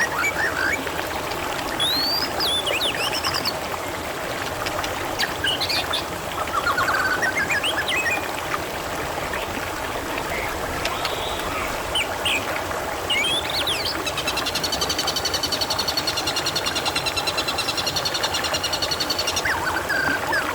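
Water trickling and gurgling steadily, with wild birds chirping over it in short calls. About two-thirds of the way through, a fast buzzy trill starts and runs for several seconds before stopping.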